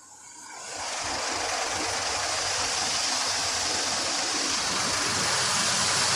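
Automatic car wash spraying water onto the car, heard from inside the cabin: a steady hiss that swells up over about the first second and then holds.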